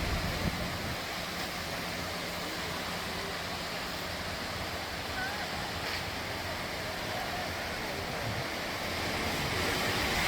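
Steady wash of surf breaking on a sandy beach, an even rushing noise that grows a little louder near the end.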